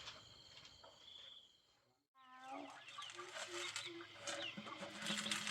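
Chickens clucking, with short high peeps, for the last three seconds or so. Before that, an insect chirps faintly and the sound drops out briefly.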